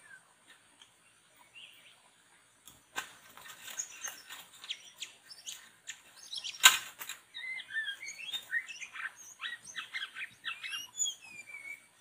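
Songbirds chirping in quick, varied rising and falling notes, sparse at first and thick from about three seconds in. Several sharp clicks run through the calls, with one loud knock about halfway through.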